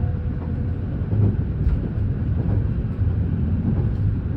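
Steady low rumble of a train carriage heard from inside, with a few faint knocks.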